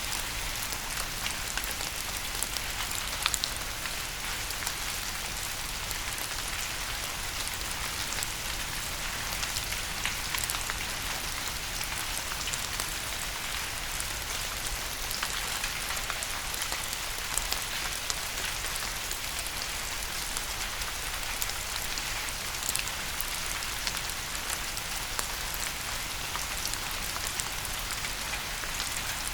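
Steady rain falling on a surface, an even hiss with many distinct drops pattering through it.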